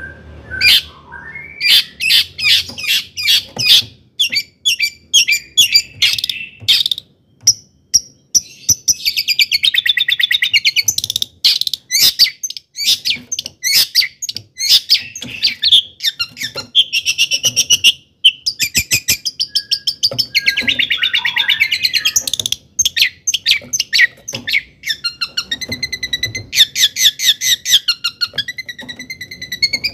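Long-tailed shrike singing vigorously: a fast, varied run of sharp high chips broken by stretches of rapid buzzy trills.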